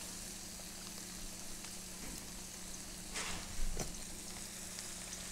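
Plantain slices frying in a hot pan: a steady sizzle, with one brief louder noise about three seconds in.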